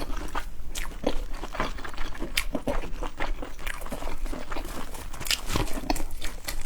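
Close-miked chewing and biting of seafood: an irregular run of wet mouth clicks and small crunches.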